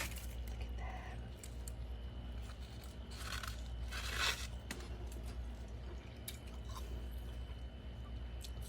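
Freezer frost being bitten and chewed, with one loud, drawn-out crunch about three seconds in and scattered small crunches around it.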